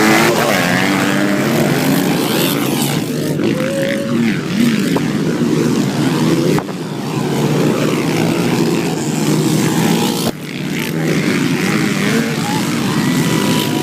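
Several 150 cc motocross motorcycle engines running and revving, their pitches rising and falling as they overlap. The sound drops sharply twice, about seven and ten seconds in.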